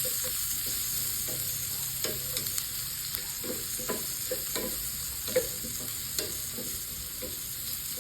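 Garlic and onion sizzling in hot oil in a pan as they are sautéed, with a steady hiss and scattered scrapes and taps of a stirring utensil against the pan, the sharpest tap about five seconds in.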